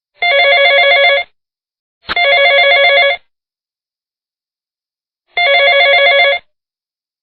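Telephone ringing: three warbling rings of about a second each. The first two come close together as a pair, and the third follows about two seconds later, in the rhythm of a ring-ring cadence.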